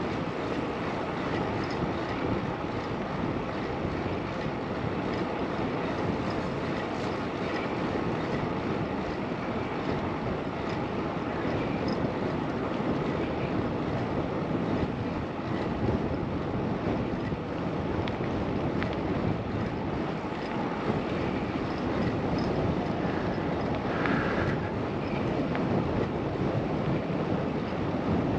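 Steady rush of wind over a GoPro's microphone while riding a bicycle: an even, unbroken noise with no change in level.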